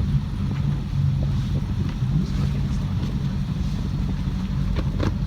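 Boat engine running at a steady speed, a low even drone. A light knock sounds near the end.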